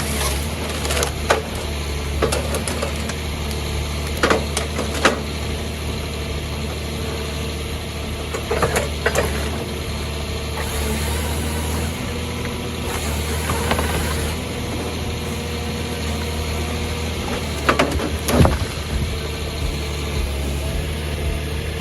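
Hitachi 350LC excavator's diesel engine running steadily. Sharp knocks and cracks come several times, about a second in, near 4 and 5 seconds, around 9, 14 and 18 seconds, as the machine works a tree stump.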